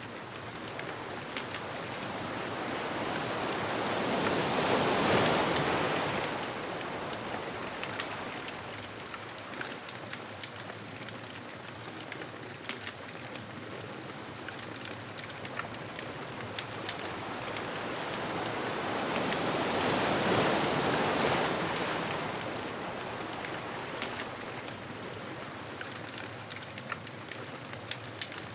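Ocean waves breaking and washing up the beach twice, about fifteen seconds apart, over a steady hiss of surf. Faint small crackles from the bonfire run through it.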